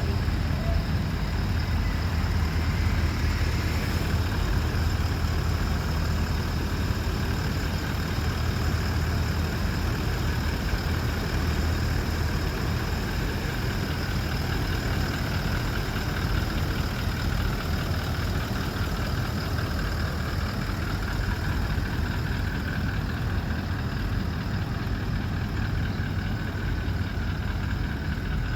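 Toyota Land Cruiser pickup's 4.5-litre V8 turbo diesel idling steadily, a low even hum that does not change.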